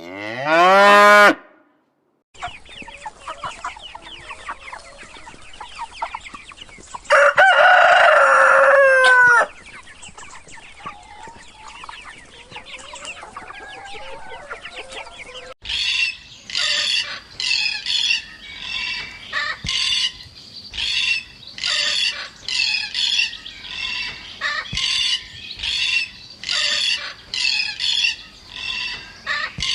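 Chickens: a rooster crows once, loud and long, over a busy background of hen calls, then from about halfway a rapid run of sharp, high clucking and squawking calls, about one to two a second.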